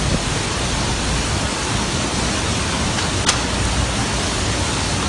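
Storm wind and rain: a steady, dense rush of noise with a heavy low rumble. There is a single sharp click a little past three seconds in.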